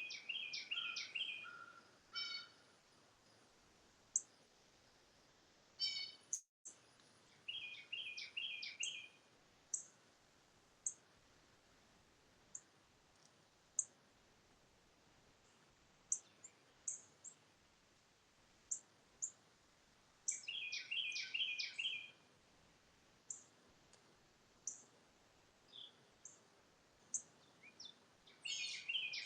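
Songbirds singing: one bird repeats a short, fast trilled phrase every several seconds, and single high chirps come in between over a faint steady background hiss.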